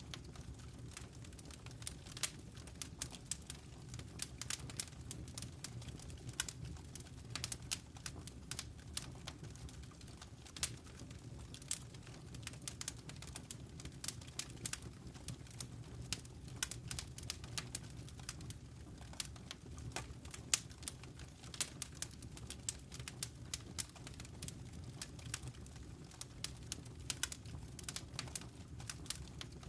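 Wood fire crackling in a fireplace: many irregular sharp pops and snaps over a low, steady rumble.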